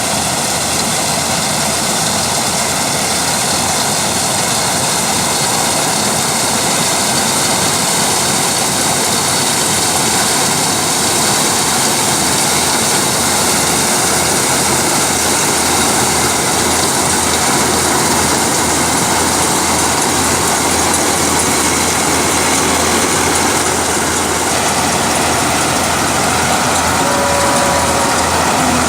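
Combine harvester running steadily while harvesting rice: a loud, constant drone of engine and machinery that holds even throughout.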